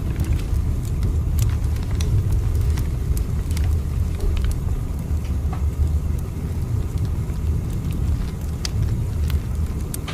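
Steady low rumble of a train running, with scattered short sharp clicks and crackles over it.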